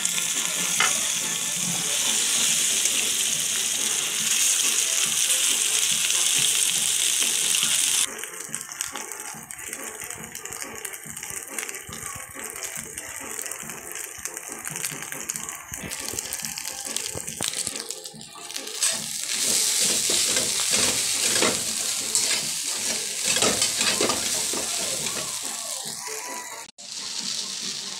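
Chopped onion frying in hot oil in a non-stick wok with a loud, even sizzle that stops abruptly about eight seconds in. After that, rice is stir-fried in the wok, with a quieter sizzle and a spatula scraping and tapping against the pan. The hiss grows louder again later on.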